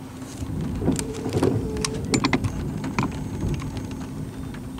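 Gusty wind buffeting the microphone for a few seconds, with a scatter of sharp clicks and taps, over a steady low hum of the parked vehicle.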